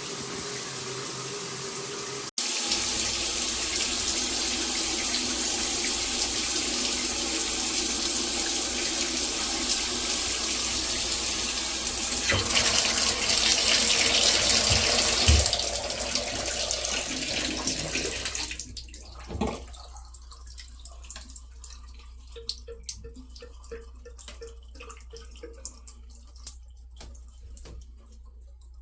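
Water spraying from a G-Promise dual rain and handheld shower head, a steady hiss that stops about two-thirds of the way through, leaving faint drips.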